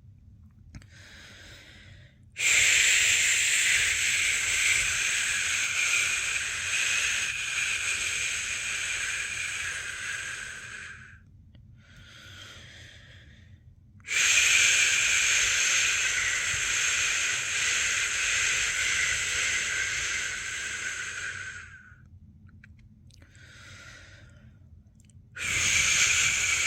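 A person's long 'shhh' shushing to lull a newborn to sleep: two long shushes of about eight seconds each, with a third starting near the end. A short, quieter breath comes between them.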